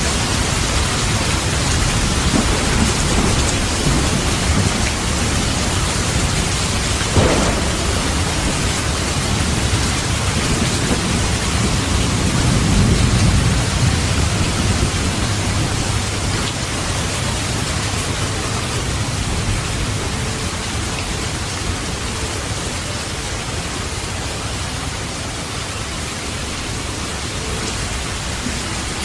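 Steady heavy rain with low thunder rumbling under it; the rumble swells about halfway through, and a short sharp crack comes about seven seconds in.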